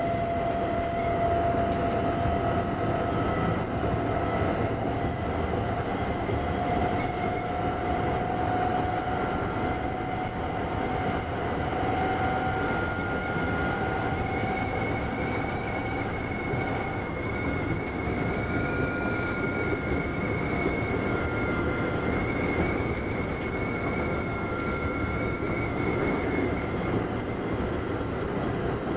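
Nankai 6000-series electric train running on the line, heard from inside the front car: a steady rumble of wheels on rail with a faint whine that drifts slightly in pitch.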